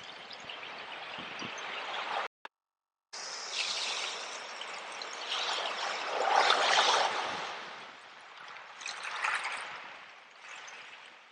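Sea waves washing in and drawing back, in several swelling surges, the biggest about halfway through. The sound cuts out completely for almost a second a couple of seconds in.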